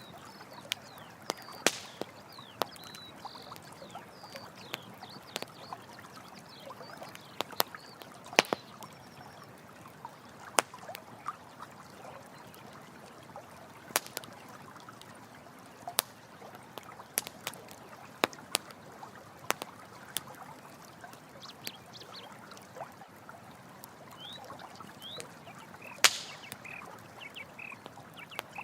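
Running water flowing steadily under a crackling campfire, with frequent sharp pops and snaps from the burning wood, the loudest about 8 and 26 seconds in. Brief high-pitched animal calls chirp now and then, mostly in the first few seconds and near the end.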